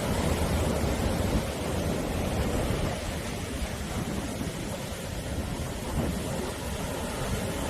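Sea waves in a continuous rush of surf, swelling in the first second or so, easing off, then building a little again near the end.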